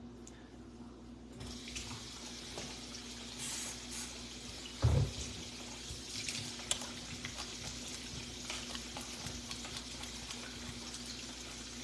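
Water running steadily from a tap, starting about a second and a half in, with a dull thump about five seconds in and a few small clicks.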